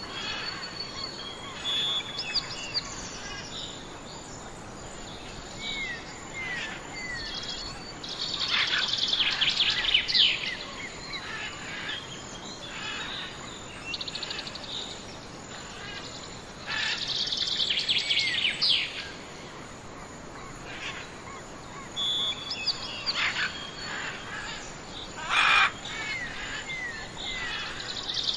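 Wild songbirds calling and singing. Short downslurred whistles and brief high notes are broken every several seconds by louder bursts of rapid chattering trills, over a faint steady background hiss.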